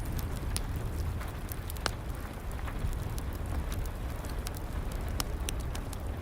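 Wood fire in a fireplace crackling, with sharp pops scattered irregularly (a loud one about two seconds in), over a steady hiss of rain and a low rumble.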